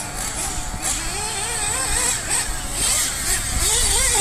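Radio-controlled racing buggies running, their small high-revving engines rising and falling in pitch as they accelerate and brake, several at once. It gets louder about three and a half seconds in.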